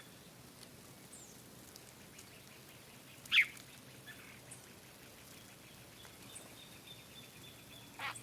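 Wild birds calling: one loud, short call about three seconds in and another near the end, with faint high chirps and a thin trill between them.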